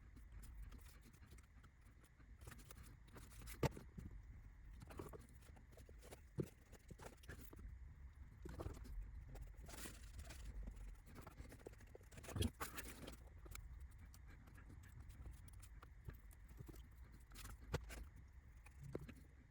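Scattered light clicks and taps of small laser-cut kit parts and tools being handled on a workbench while roof tiles are laid, with a few sharper knocks.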